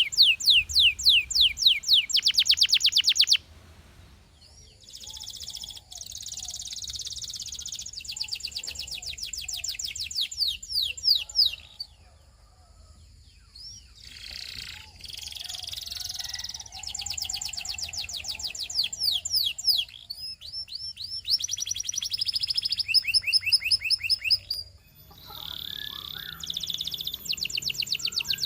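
Domestic canary singing: trilled phrases of rapidly repeated, high down-slurred notes that change from phrase to phrase. The loudest trill comes in the first few seconds, and there are short pauses between phrases.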